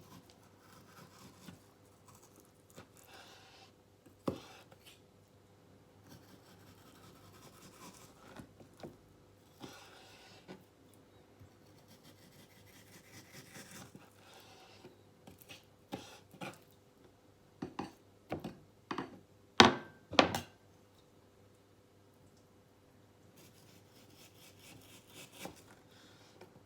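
Knife work on deer loin on a wooden cutting board: soft, intermittent scraping and rubbing strokes. About two-thirds of the way through comes a run of sharp knocks on the board, the loudest two close together.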